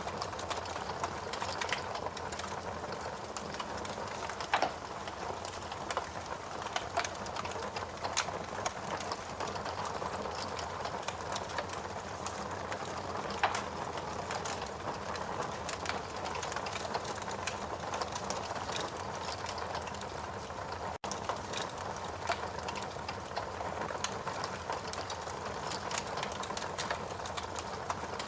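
Wood fire burning in a fireplace: a steady hiss with a constant scatter of small crackles, and a few louder pops, one about four and a half seconds in and another about thirteen seconds in.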